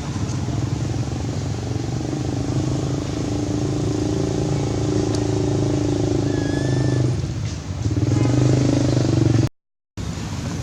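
A motor engine running steadily, with a brief dip in level and then a short cut to silence near the end.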